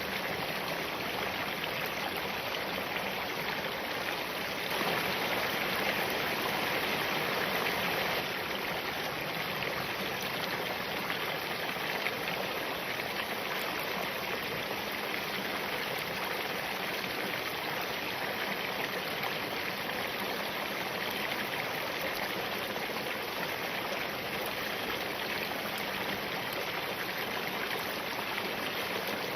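Spring-fed mountain stream flowing over rocks: a steady rush of running water, a little louder for a few seconds near the start.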